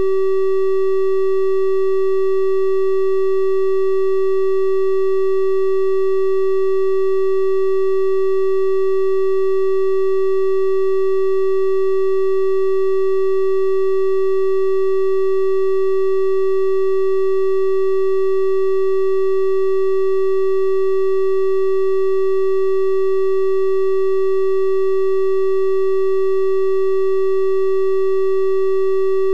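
A steady synthesized 384 Hz triangle-wave tone, held at one pitch with faint higher overtones, unchanging.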